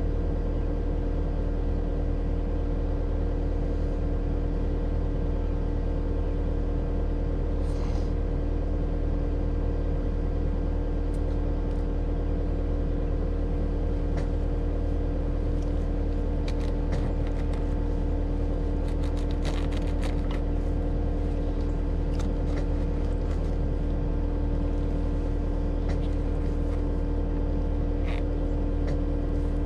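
Cat 259D compact track loader's diesel engine idling steadily, with scattered short clicks and scrapes over it, thickest about two-thirds of the way through.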